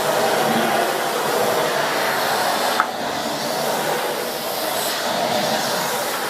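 Miele S8 canister vacuum cleaner running steadily with its powered floor head working over a mat, with one short click about three seconds in.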